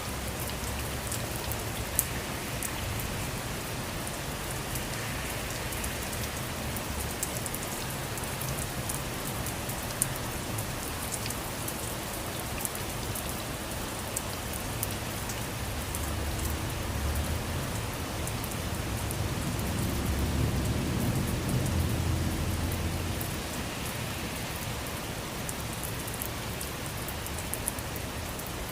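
Steady rainfall on a surface, with scattered individual drops ticking. A low rumble swells about two-thirds of the way through and then fades.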